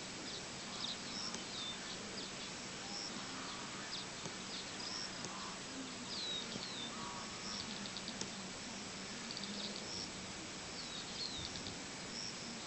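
Small birds chirping and twittering on and off, with short high calls, quick falling whistles and a couple of rapid trills, over a steady outdoor hiss and a faint low hum.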